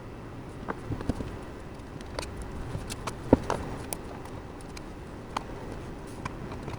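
Scattered light clicks and knocks, the loudest about three and a half seconds in, over a steady low hum.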